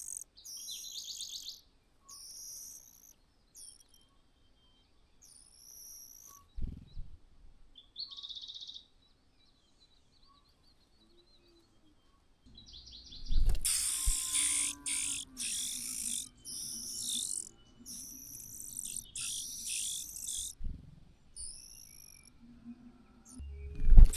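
Birds chirping in short, high-pitched calls, a scatter near the start and a busier run from about halfway on, with a few dull low thumps.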